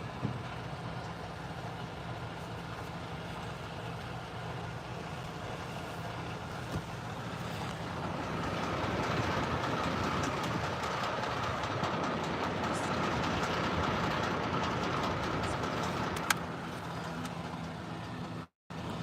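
Steady hum of an idling vehicle engine. For several seconds in the middle a louder rushing noise with a high steady tone rises over it, ending in a sharp click.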